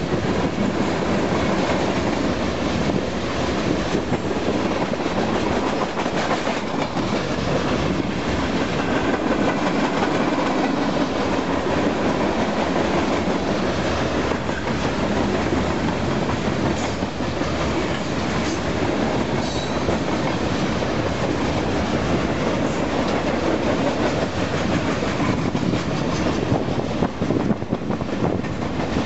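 Union Pacific 89-car freight train rolling past, a steady, continuous noise of wheels on rail.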